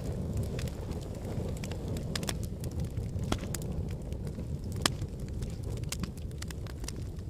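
Wood logs burning in a fireplace: a steady low rumble of the flames with frequent sharp crackles and pops, one louder pop about five seconds in.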